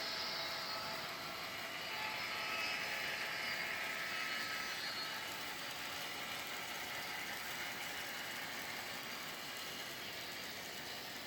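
A train passing by: a steady rolling noise of wheels on rails, slowly getting quieter.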